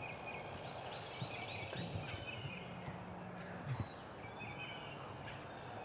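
Woodland birdsong, with many small birds chirping and trilling, and a low, distant wild turkey call in the middle.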